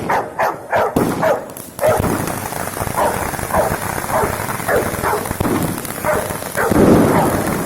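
A dog barking over and over, about twice a second, against the constant crackle and bangs of fireworks, with a few sharp pops in the first two seconds.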